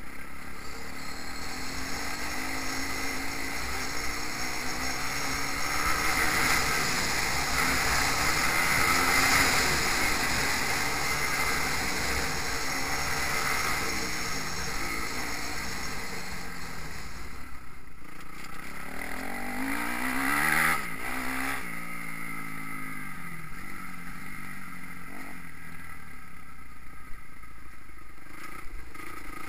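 Motocross bike engines revving up and down as riders work the track, and one bike passes close about two-thirds of the way through with its pitch dropping. Wind rumbles on the microphone underneath.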